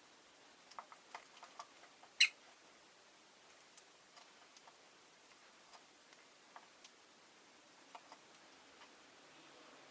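Peach-faced lovebirds in their cage: scattered small ticks and taps, with one short, sharp call about two seconds in.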